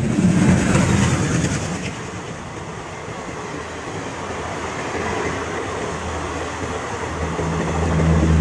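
Passenger train coaches running past at speed: a steady rushing of wheels on rail. Near the end it grows louder, with a low hum coming in.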